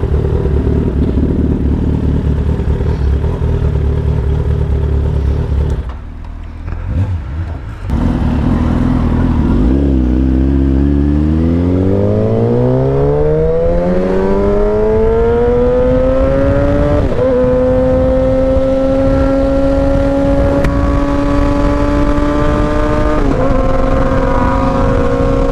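Motorcycle engine running steadily, dropping off for about two seconds, then climbing steadily in pitch as the bike accelerates hard and settling into a high steady note, with brief breaks in the note about two-thirds of the way through and again near the end.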